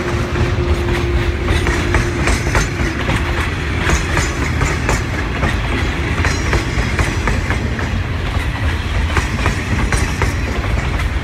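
Loaded log cars of a logging train rolling past at close range: a steady low rumble from the wheels, with frequent irregular clacks and knocks as they pass over the rails.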